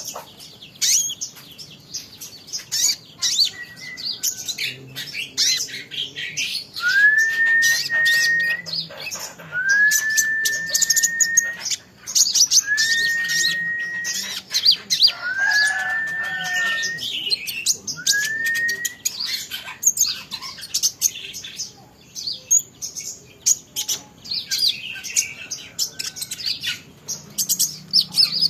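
Small songbird chirping and twittering rapidly and continuously, with five drawn-out whistles in the middle that each rise and then hold steady for about a second.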